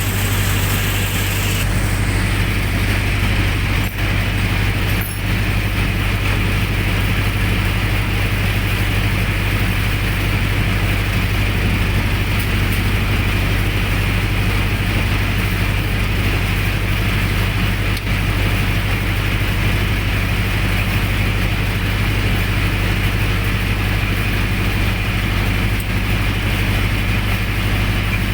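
Generator set's engine running steadily with a strong low hum, and a couple of faint clicks about four and five seconds in.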